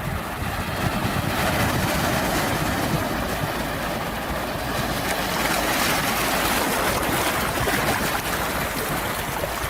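Sea waves washing ashore, a steady rush that swells about a second in and again midway through.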